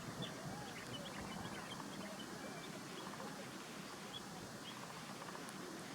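Short, high bird chirps: a quick cluster in the first two seconds and a few more about four seconds in, over steady outdoor background noise.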